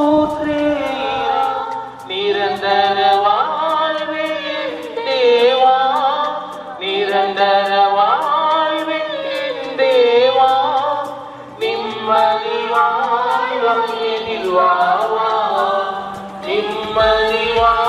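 Choral singing in long phrases, breaking every few seconds, over a light steady beat.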